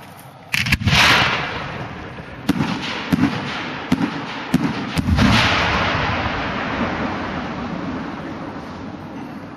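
Aerial fireworks bursting overhead. A loud bang comes about a second in, then a string of sharper bangs between about two and a half and five seconds in, each trailing off in a long rolling rumble that slowly fades.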